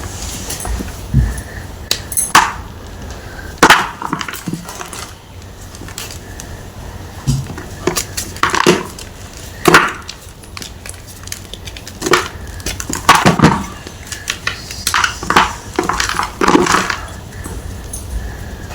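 Round block of gym chalk crunching and crumbling, with crisp cracks every second or two that come in tighter clusters past the middle.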